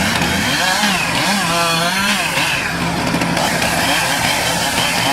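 Ural truck's engine revving hard under load, its pitch surging up and down as the driver works the throttle to climb a slippery snowy slope. Cuts off suddenly about five seconds in.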